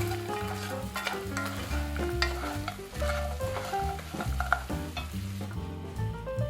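Spatula stirring in a nonstick frying pan, with the cooking sizzling and the utensil clicking against the pan over and over, most likely caramel being stirred with bread cubes. Background music with a melody and bass line plays throughout.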